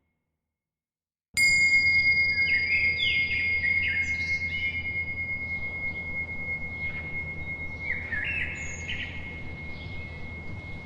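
Silence for about a second, then a small high-pitched bell is struck once and rings on, slowly fading. Over it, birds chirp in short falling phrases above a low steady background.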